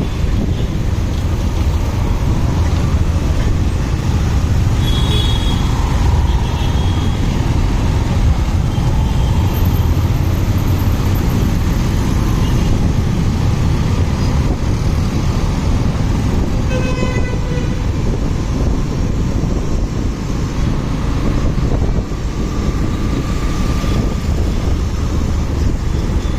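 Steady rumble of a motorcycle riding in traffic, engine and wind noise together. A vehicle horn honks briefly about two-thirds of the way through.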